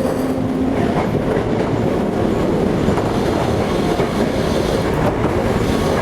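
Toei 5300 series electric train running at speed, heard from inside the car: steady rolling noise from wheels on rail, with faint clacks over rail joints. A steady motor tone fades out in the first second.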